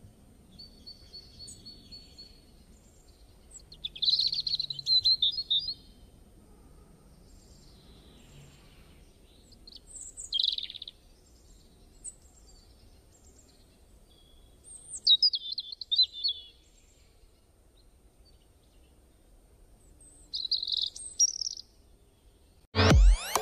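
Small bird chirping and twittering in short high bursts every few seconds, over faint background noise. Music with a beat starts abruptly near the end.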